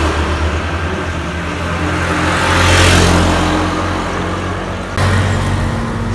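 Road traffic: a steady engine hum with a vehicle passing close by, loudest about three seconds in, and an abrupt change in the sound about five seconds in.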